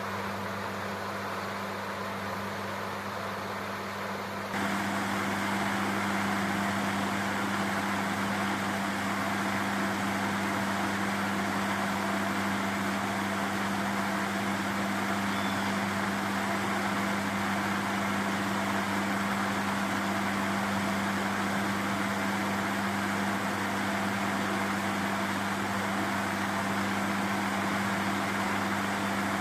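Electric radiator cooling-fan motor from a Chevrolet Corsa pickup running steadily under test after being cleaned and overhauled, a constant electric hum with airy whoosh that gets louder about four and a half seconds in.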